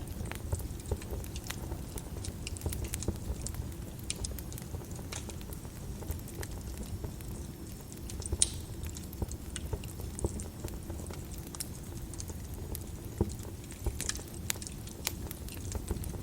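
Wood fire crackling in a fireplace: irregular snaps and pops over a low steady rumble of flames, with a few louder pops about eight and thirteen seconds in.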